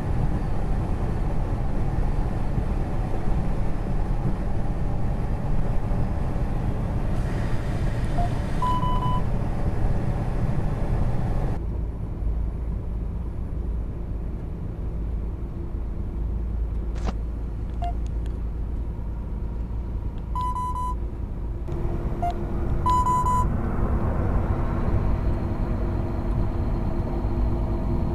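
Truck cab noise: a steady low engine and road rumble. A short electronic beep sounds about a third of the way through, and two more come a couple of seconds apart later on.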